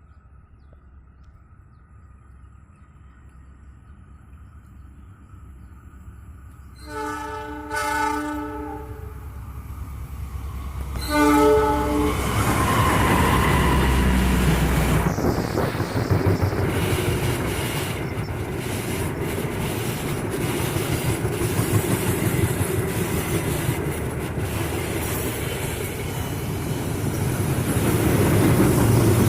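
Diesel-hauled KAI Argo Semeru passenger train approaching and passing. The locomotive's horn sounds a long chord about seven seconds in and a short second blast about eleven seconds in. Then the train goes by loudly, with a steady rumble and the clatter of its wheels over the rail joints.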